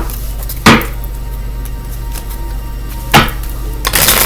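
A deck of tarot cards being handled: three sharp knocks, as of the deck tapped against a table, then shuffling starts near the end.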